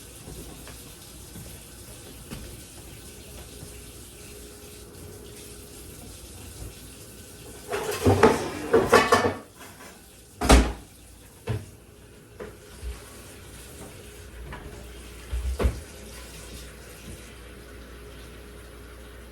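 Water running into a sink, with dishes and hard items clattering and knocking as they are handled: a burst of clatter about eight seconds in, a sharp knock about ten and a half seconds in, and a few lighter knocks after.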